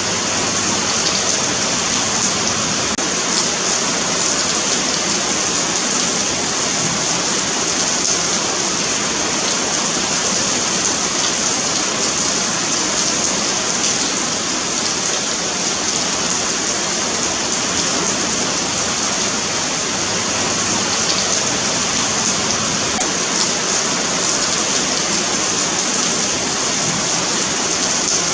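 Steady rain falling on a paved sidewalk, a continuous hiss of drops with fine pattering.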